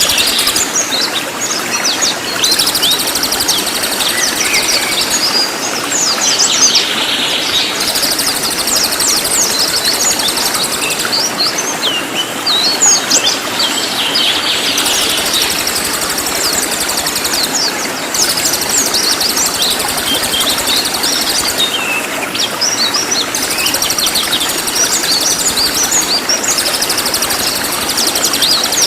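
Cililin songbird singing rapid, dense strings of high chirps and sweeping notes in clusters, over a steady background hiss.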